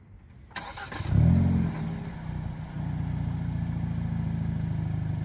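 Hyundai Elantra N's turbocharged 2.0-litre four-cylinder starting: a short crank, a loud flare of revs, then it settles to a steady idle.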